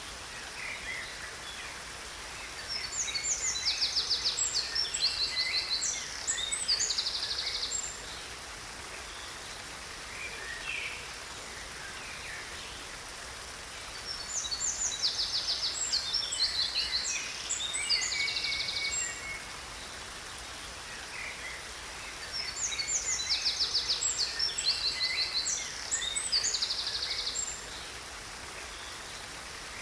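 A songbird singing fast, high trills in three bouts of about five seconds each, the same phrase repeating, over a steady hiss of falling water from a waterfall.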